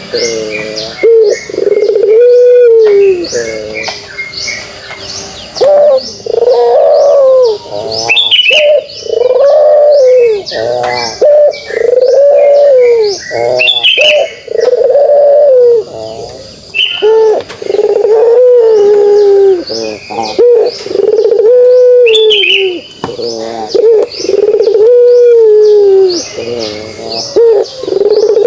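Puter pelung (domestic Barbary turtle dove) giving its 'kugeruk' coo over and over: loud, arched low coos, each about a second long, following one another every one to two seconds.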